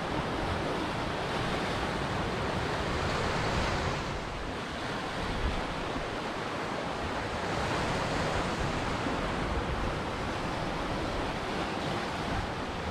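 Ocean surf washing onto a shore, a steady rush of breaking waves that swells and eases gently.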